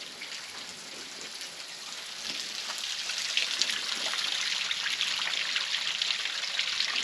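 Small creek waterfall at low flow, water splashing and trickling over rock ledges. It grows louder about two and a half seconds in.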